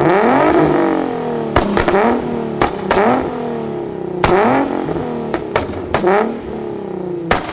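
Car engine revved hard several times in a row, its pitch climbing and dropping back again and again, with sharp bangs from the exhaust between revs.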